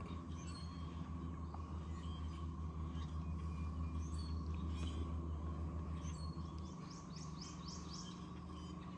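Birds chirping in short, quick calls, most busily around the middle, over a steady low hum that eases off about two-thirds of the way through.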